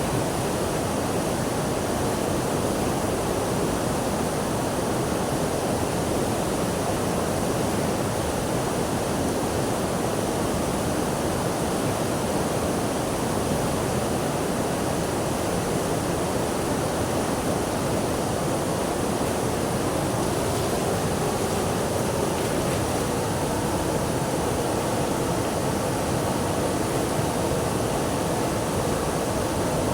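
Steady rushing of flowing water, an even noise that holds the same level throughout.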